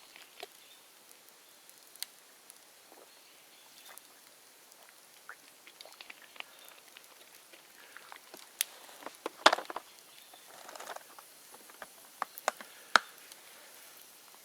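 Bonfire of dead bamboo burning, crackling with scattered sharp pops over a low hiss; the loudest pops come about nine and a half and thirteen seconds in.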